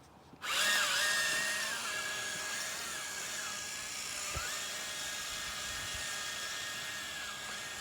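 Toy RC truck's electric motor and gearbox whining as it drives, starting suddenly about half a second in, with the pitch dipping and rising again a couple of times as its speed changes.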